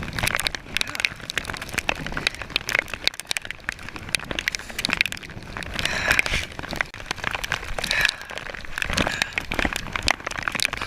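Rain and choppy water splashing on and around a kayak in a storm, heard as dense, irregular pattering clicks over a rushing hiss, with a few louder splashes.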